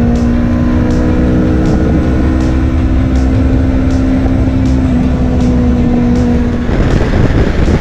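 Kawasaki Versys X300 parallel-twin engine holding a steady cruising note, its pitch creeping up slightly, over heavy wind rumble on the helmet microphone. About seven seconds in the engine note drops away, leaving mostly wind noise.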